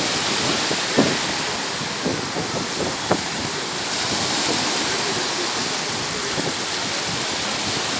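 Sea waves washing onto a beach as a steady rushing noise, with wind on the microphone and brief sharp sounds about one and three seconds in.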